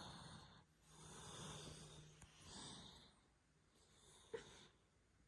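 Very quiet, soft breathing sounds close to the microphone, in a few slow swells, with one small click about four seconds in.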